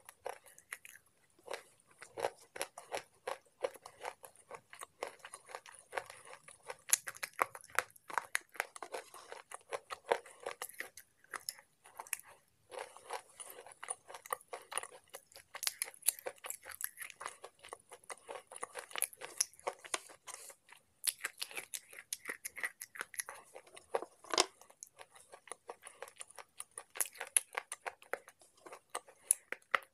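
Slate pencils being bitten and chewed: a dense run of sharp crunches, several a second.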